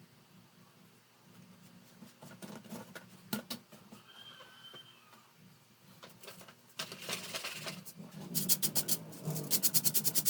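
Scattered light clicks and taps, then a rubbing that turns into fast, even scrubbing strokes (about six a second) in the last couple of seconds: an electric fan being cleaned by hand.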